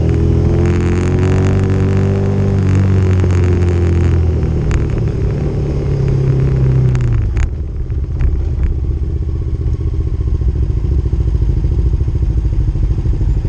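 Motorcycle engine running on a dirt trail, its pitch rising and falling with the throttle for the first few seconds, then settling to a steadier low running about halfway through. A few sharp clicks sound around the middle.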